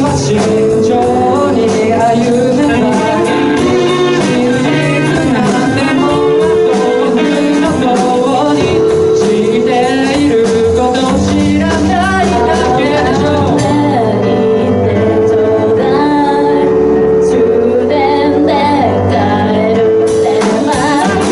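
Live band playing a song with a singer, keyboard and guitar.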